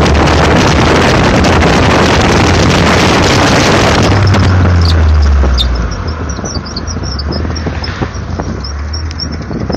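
Super Seven sports car running with loud wind and engine noise. About six seconds in this drops away and a rapid run of short, high-pitched 'kiki' squeaks continues: the abnormal squeak noise the owner is chasing.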